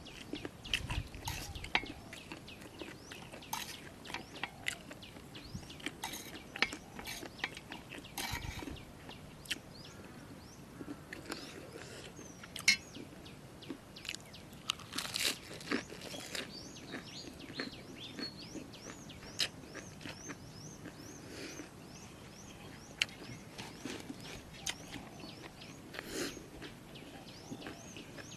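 Chewing a mouthful of crunchy jellyfish salad, with many irregular crunching clicks. Birds chirp in the background.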